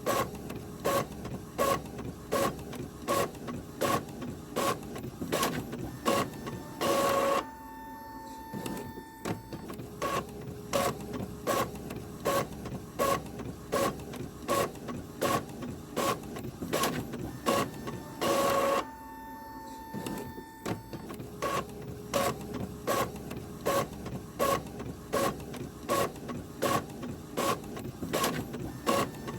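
Printer running through paper: a steady run of sharp mechanical clicks about two a second, over a faint motor whine. A longer, louder burst comes twice, about a third of the way in and again past the middle, in a cycle that repeats roughly every eleven seconds.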